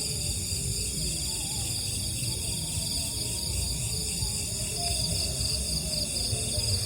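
A steady night chorus of crickets, a continuous high trilling at several pitches, over a low rumble.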